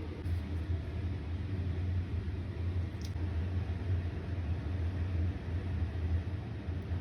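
Steady low machine hum over a faint hiss, with a small click about three seconds in.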